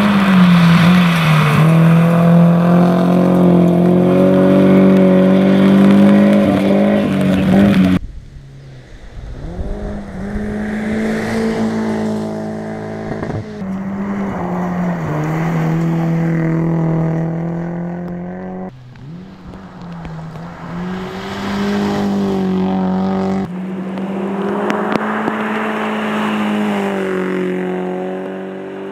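Rally car engine running hard at high revs, its pitch rising and dipping with the throttle. It breaks off abruptly several times as one clip cuts to the next.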